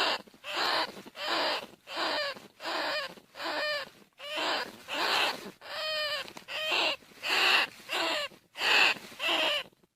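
Bandicoot rat squealing over and over in a rapid run of short calls, about one every three-quarters of a second. Each call bends in pitch.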